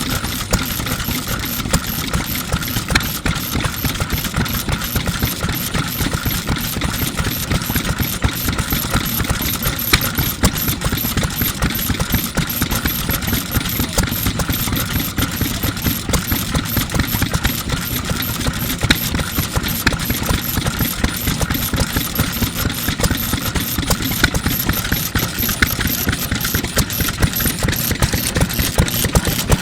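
1948 National Type FK 3 hp stationary oil engine running steadily, a continuous even train of rapid exhaust beats with a light metallic clatter.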